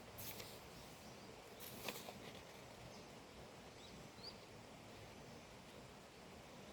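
Faint natural outdoor ambience: two soft rustles near the start, a light click about two seconds in, and two short, faint high bird chirps about four seconds in.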